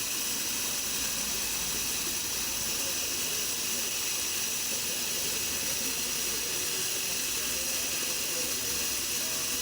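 Husqvarna DM 220 electric core drill running steadily, a constant hissing motor noise.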